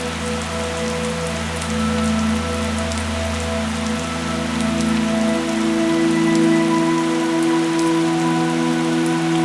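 Steady rain falling on a surface, a dense hiss with fine droplet patter. Underneath are several soft sustained tones that shift slowly from one to another, like a drone.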